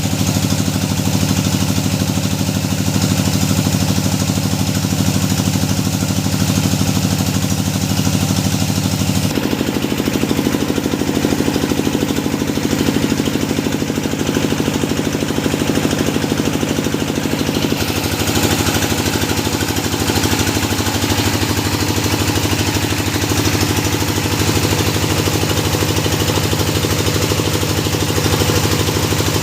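Engine of a hydraulic deep-well drilling machine running steadily. Its note changes abruptly about nine seconds in and again about eighteen seconds in.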